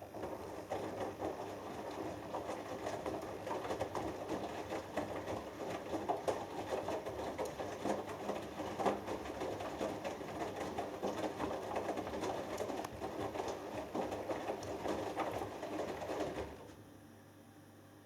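Hoover Dynamic Next washing machine drum turning during the wash, the wet cotton load tumbling and water sloshing. It runs for about sixteen seconds and stops abruptly, leaving a low hum.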